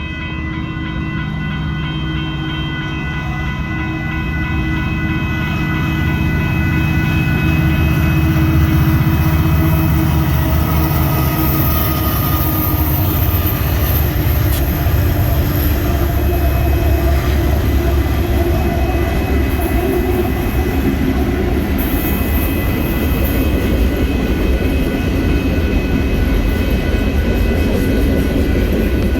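A train passing close by. Its low noise builds over the first several seconds and then holds steady, with steady high tones running over it.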